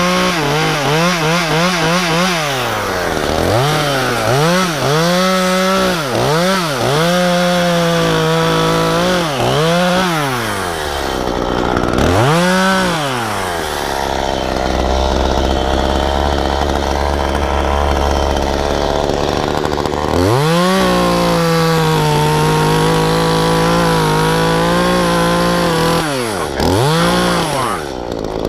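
Efco MTT 3600 two-stroke chainsaw cutting into a maple top. It revs up and down in repeated short bursts, drops back to idle for several seconds in the middle, then runs steadily at high speed for about five seconds before easing off, with one last brief rev near the end.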